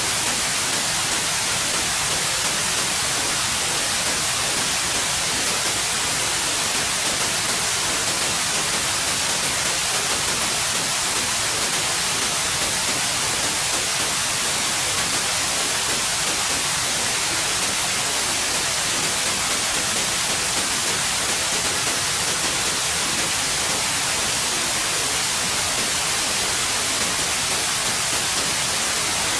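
Steady white noise: an even hiss with no changes or events, brightest in the highs.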